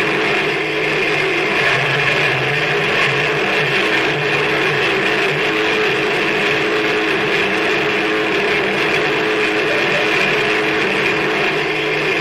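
Noise music: a loud, unbroken wall of dense noise, strongest in the upper range, with a few steady low droning tones held underneath at a constant level.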